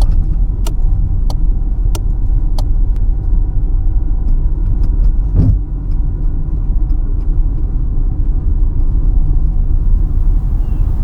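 Steady low rumble of a car's engine and tyres on the road, heard from inside the cabin while driving, with a run of sharp ticks about every two-thirds of a second in the first three seconds.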